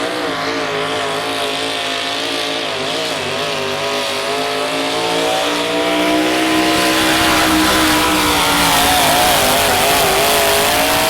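Modified 4x4 pulling truck's engine held at high revs under heavy load as it drags the sled, its pitch wavering up and down. It grows louder about halfway through.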